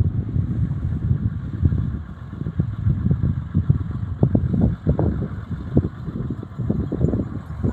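Hino truck's H07D inline-six diesel running under a full load: a steady low rumble with irregular knocks and rattles over it.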